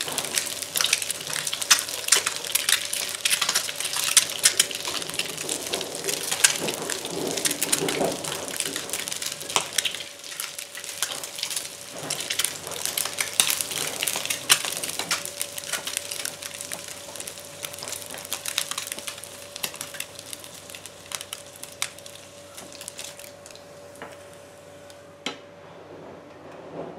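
Halved hard-boiled eggs frying in hot oil in a nonstick pan: a steady sizzle with many sharp crackles and pops of spitting oil. The sizzle thins and fades over the second half as the eggs are lifted out of the pan.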